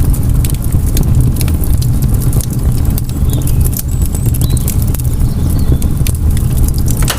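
Wind buffeting the microphone as a steady low rumble, with rustling, crackling steps through grass and undergrowth. A few faint bird chirps come through high above it.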